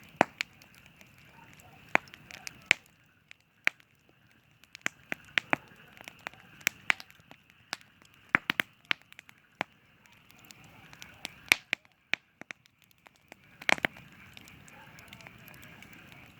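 Campfire crackling, with irregular sharp pops and snaps of burning wood, a few much louder than the rest.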